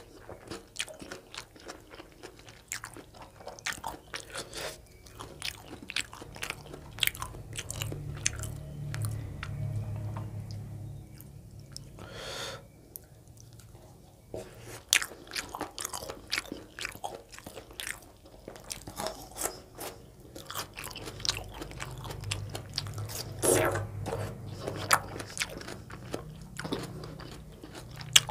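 Close-miked chewing and biting of chicken gizzard curry with soft roti, a dense run of short mouth clicks throughout.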